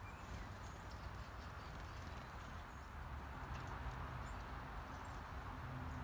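A small songbird calling: a thin, very high run of about a dozen quick notes in the first half, over a steady outdoor hiss and low rumble.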